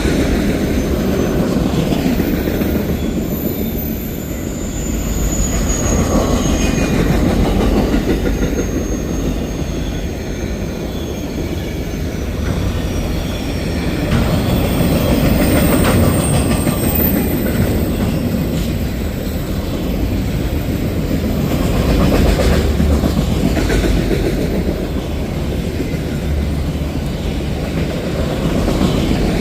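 Freight train cars rolling past at close range: a steady heavy rumble of wheels on rail with rhythmic clacking, and thin high wheel squeal now and then, chiefly a few seconds in and around the middle.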